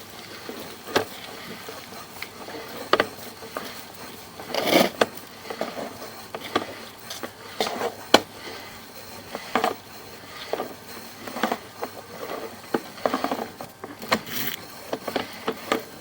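Sewer inspection camera's push cable and camera head being pulled back through the pipe: irregular knocks, clicks and rubbing, with a sharper knock about five seconds in and another about eight seconds in.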